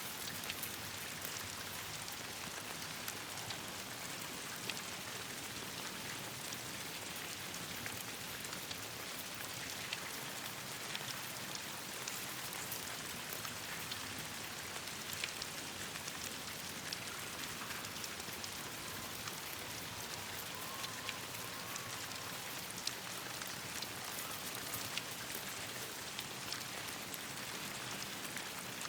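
Steady rain falling, a continuous hiss with many scattered sharp ticks of drops striking.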